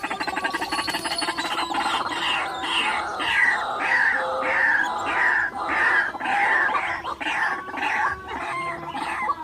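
White-breasted waterhen (ruak-ruak) calling: a fast rattling trill, then a run of harsh, downward-sliding notes repeated about twice a second.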